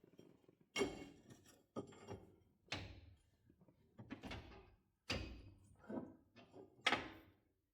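About seven irregular clunks and knocks, roughly a second apart, each dying away quickly: metal parts and tools being handled and set down during front-end suspension reassembly.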